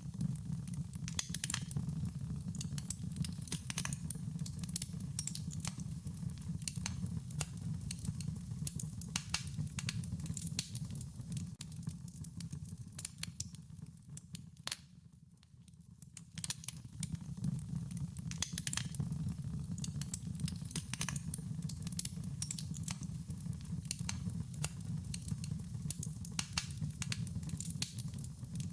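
Wood fire crackling: irregular sharp pops and snaps over a low steady rumble, the whole sound dipping briefly about halfway through.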